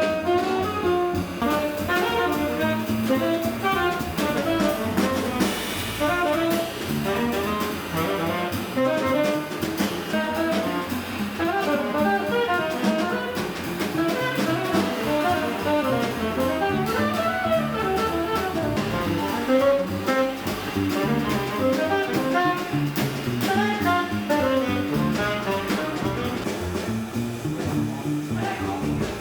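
Jazz saxophone playing a quick run of changing notes over a drum kit.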